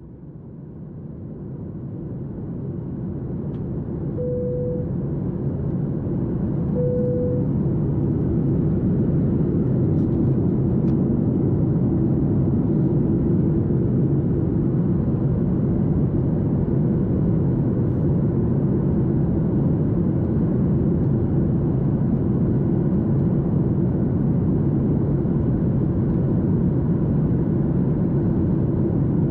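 Boeing 737 MAX 8's CFM LEAP-1B jet engines spooling up to takeoff thrust, heard from inside the cabin. A low rumble grows louder over about eight seconds, then holds steady and loud.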